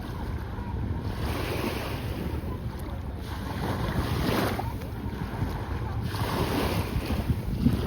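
Sea waves breaking and washing up the shore in surges every two to three seconds, over a steady low rumble of wind on the microphone.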